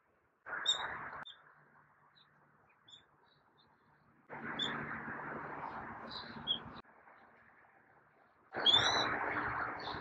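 Scattered short, high bird chirps, with three spells of a rushing, hissy noise that cut in and out abruptly, the last one the loudest.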